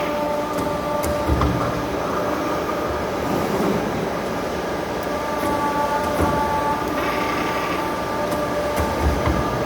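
CNC tube bending machine running: a steady mechanical hum with several held whining tones, and a couple of knocks, one about a second in and one near the end.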